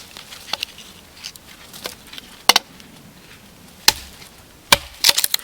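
Firewood being chopped and split into smaller kindling pieces: several irregular sharp knocks and cracks of wood, with a quick cluster near the end.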